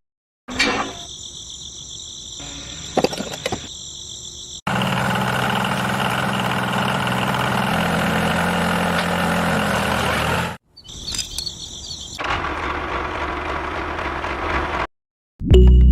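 A small motor running steadily in a few short cut-together takes, the loudest one in the middle with an even hum, the quieter ones carrying a steady high whine; music starts right at the end.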